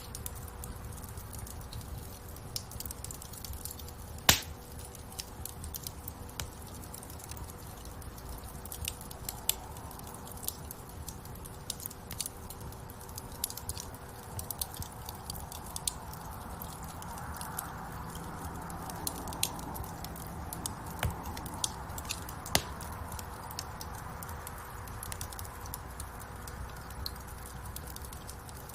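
Wood fire burning in a fireplace, crackling with many small snaps and pops over a low rumble of flames; a louder pop about four seconds in and another a little past twenty seconds.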